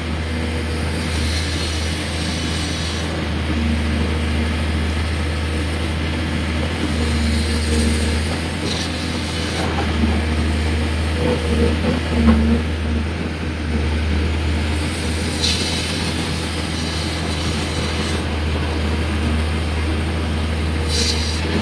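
Excavator's diesel engine running steadily while it works, with its low hum swelling louder now and then.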